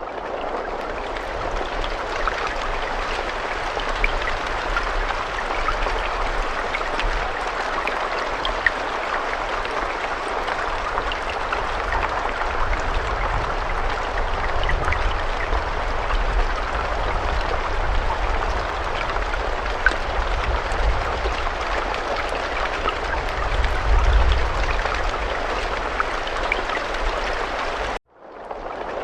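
Steady rain falling, a continuous hiss scattered with individual drop taps, with a low rumble swelling about three-quarters of the way through. Near the end it cuts briefly to silence and then starts again.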